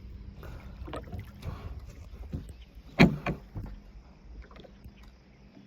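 Knocks of a paddle or gear against a kayak's hull, a few scattered ones with the loudest about three seconds in, over a low rumble of wind on the microphone.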